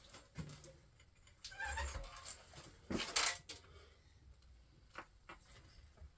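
Scattered metal clanks and knocks from hands and tools working on a small-block Chevy 350 engine, the loudest about three seconds in, with a short rising squeak near the two-second mark.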